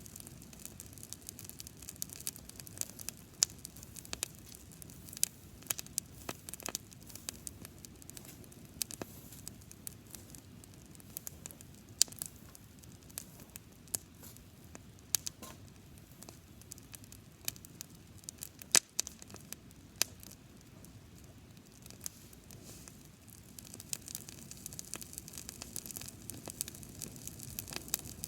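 Campfire of dry grass burning, crackling with irregular sharp pops over a low steady rush.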